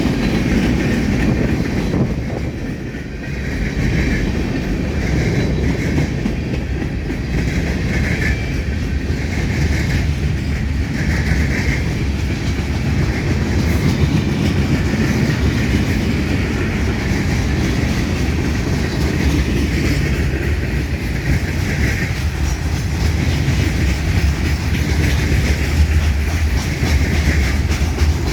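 A long freight train's cars rolling past in a steady rumble, their wheels clacking over the track.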